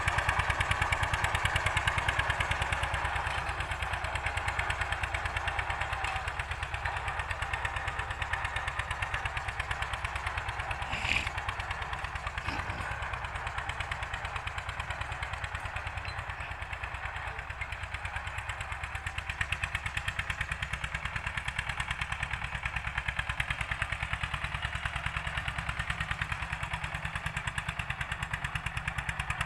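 Old-model Eicher tractor's diesel engine running steadily with a fast, even chug while pulling a cultivator. There is a single sharp click about eleven seconds in.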